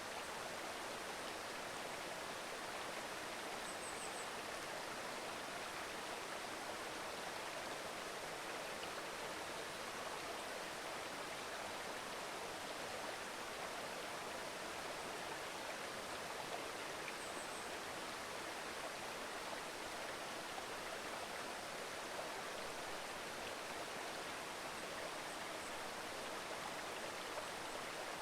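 Mountain river babbling steadily over stones, an even, continuous rush of water.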